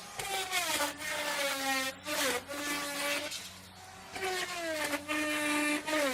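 Electric router cutting wood: the motor's high whine drops in pitch as the bit bites into the wood under load, then holds steady. The cut eases off and bites again twice more, with short lulls in between.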